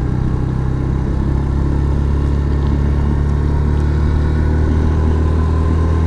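Yamaha FZS V3's single-cylinder engine running at a steady speed while the motorcycle is ridden along the road, with an even rushing noise over it.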